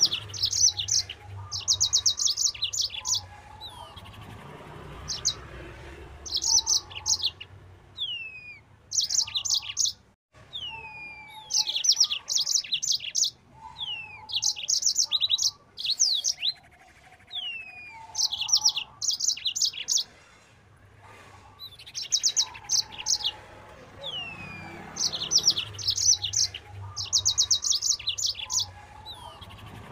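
Yellow-fronted canary (Mozambique singer) singing in full, rapid song. Each phrase is a falling whistled note followed by fast, high trills, and the phrases repeat every two or three seconds over a faint low hum.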